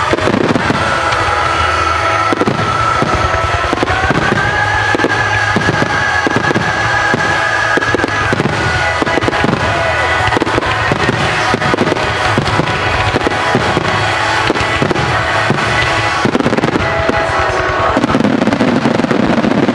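Fireworks display: a rapid, unbroken barrage of bursts and crackling, with music playing along.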